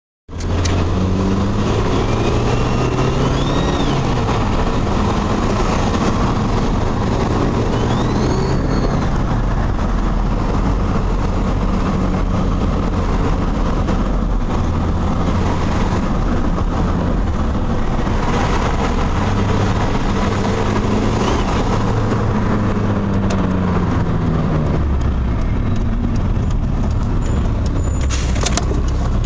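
Mitsubishi 4G63 turbocharged four-cylinder engine running under load as the car is driven, its pitch repeatedly climbing and dropping as it revs and shifts. A couple of brief high rising whistles come in the first ten seconds, and the owner says the engine makes a funny sound as it comes into boost.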